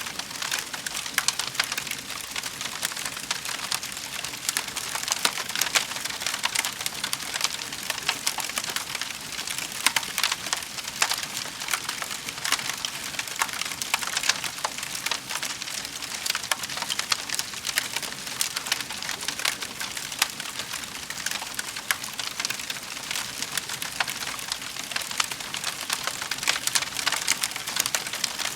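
Wood fire in a fireplace crackling, a dense run of small pops and snaps over a soft hiss.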